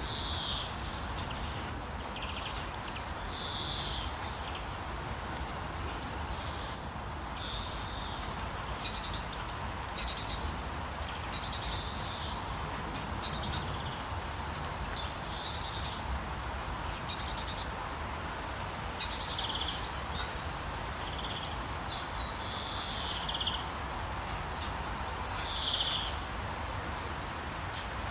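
Several birds chirping in short, scattered calls, a few of them sharper and louder, over a steady hiss of falling rain.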